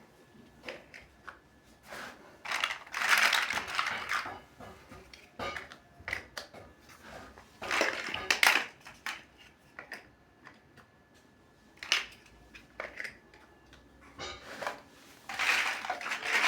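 Small plastic building bricks being handled and pressed together: scattered sharp clicks and a few short rattling bursts, with quiet gaps between.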